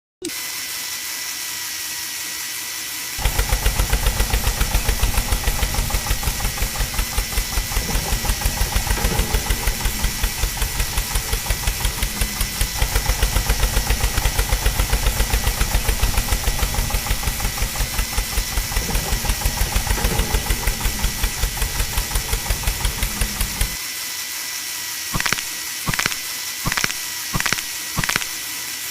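A tractor-type engine running with a rapid, even, low thumping for about twenty seconds, starting about three seconds in and then stopping, over a constant hiss. Several short sharp clicks follow near the end.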